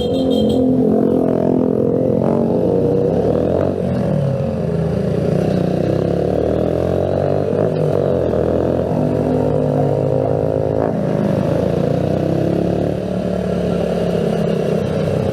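Motorcycle engine running close by, its pitch rising and falling as the revs change.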